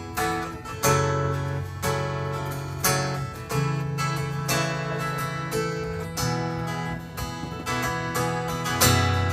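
Acoustic guitar strumming chords as a song intro, with a stroke roughly every second and the chord changing every few seconds.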